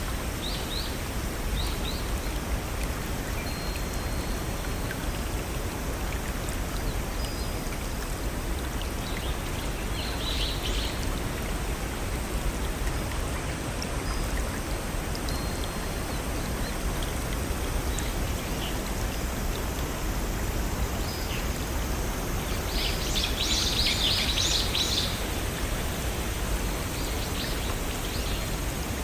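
Steady rushing of a small stream over little waterfalls, with short bursts of high bird chirps now and then, the busiest a little past two-thirds of the way through.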